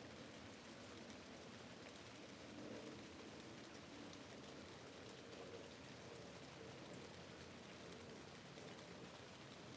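Quiet, steady rain, with faint ticks of single drops scattered through it.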